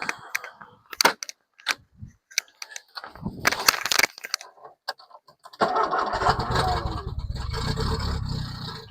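A few clicks and knocks, then about five and a half seconds in a freshly installed Ford 2.0 Pinto four-cylinder engine is turned over on the starter for about three seconds in a start attempt, with a steady pulsing rhythm, and stops abruptly.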